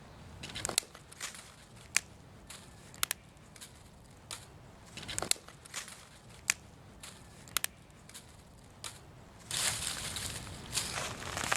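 A fire of dry fallen leaves crackling, with sharp irregular pops and snaps. Near the end a louder, denser rustling and crunching of dry leaves sets in.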